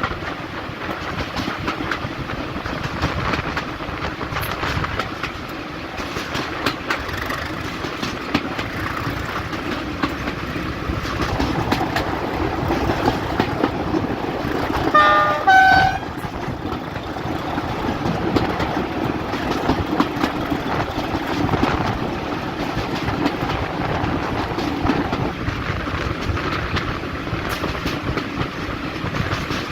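Diesel train running along the line, its wheels clicking over the rail joints beneath a steady engine rumble. About halfway through it sounds a short horn blast of two notes, one after the other.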